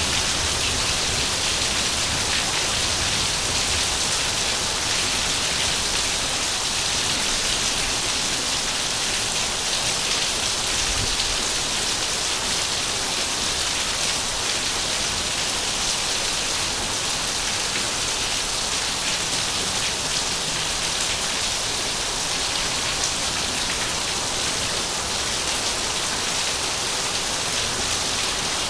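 Heavy rain falling steadily and evenly on surfaces, a dense continuous hiss with no thunder or breaks.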